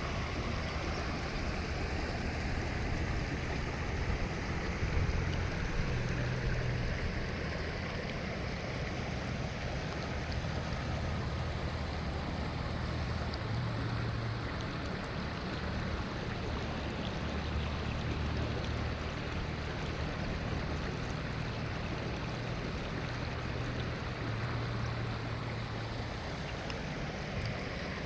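River water flowing steadily, with an uneven low rumble that swells and fades every few seconds.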